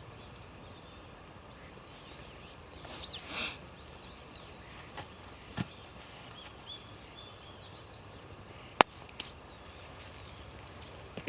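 Small birds chirping in short rising and falling calls over outdoor background noise, with a few sharp knocks or snaps, the loudest about nine seconds in.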